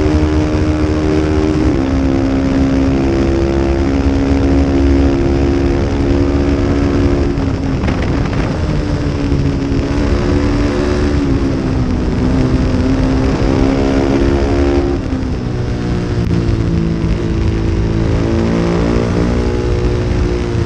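Small-displacement racing motorcycle engine of the 250 Superbike class at race pace, its note holding and then shifting pitch several times as the rider changes gear and works the throttle through corners.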